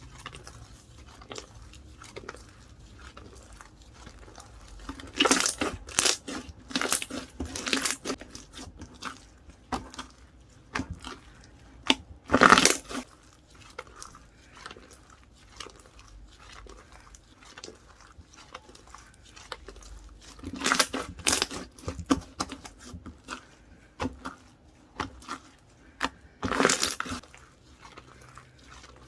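Hands squishing and pressing a moist slime packed with small foam balls, giving a run of small clicks and pops with squelching. Louder bursts of clicking come several times: about a fifth of the way in, near the middle, and twice more in the last third.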